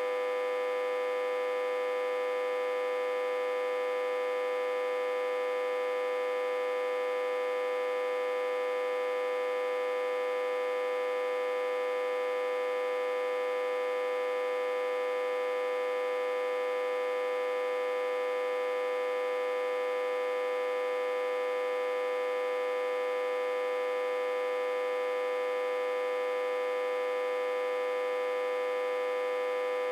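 Autotransformer humming steadily. It is reverse-connected to a step-down transformer and fed about 60–80 V. The hum is one strong, unchanging note with a dense row of overtones above it.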